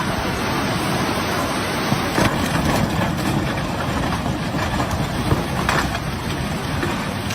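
Floodwater rushing, a steady loud noise with a few sharp knocks through the middle.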